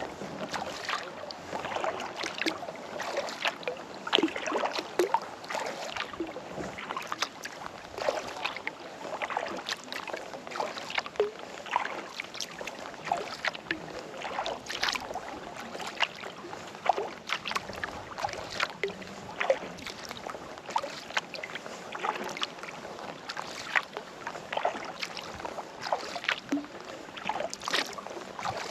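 Kayak paddling on calm water: the paddle blades dipping and lifting, with many small, irregular splashes and drips.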